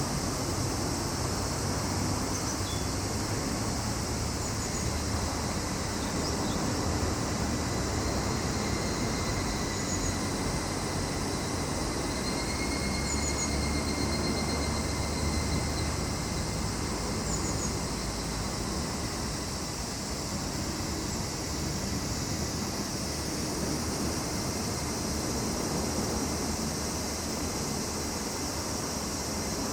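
Steady chorus of summer insects, a continuous high hiss with a thin held tone and a few faint short chirps, over a low rumble that swells in the middle and eases off.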